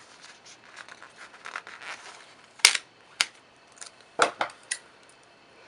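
Paper rustling, then several sharp snips and clicks of scissors cutting a piece off a sticker sheet.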